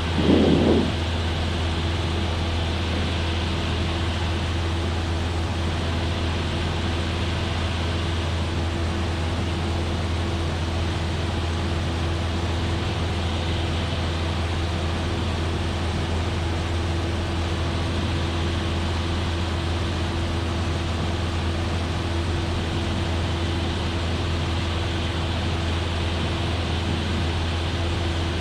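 Cessna 172F's six-cylinder Continental O-300 engine and propeller running at a steady cruise power, heard as an even drone from inside the cabin. A brief louder sound comes in the first second.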